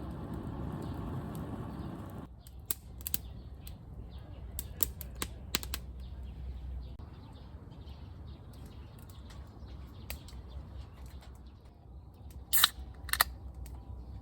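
A steady rushing noise that stops suddenly about two seconds in, followed by scattered sharp clicks and snaps, with two louder ringing clinks near the end.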